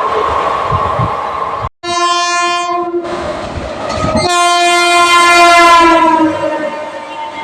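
Electric locomotive horn sounding two blasts over the rumble and clatter of a train running at speed: a short blast about two seconds in, then a longer, louder one from about four seconds in whose pitch sags as it fades.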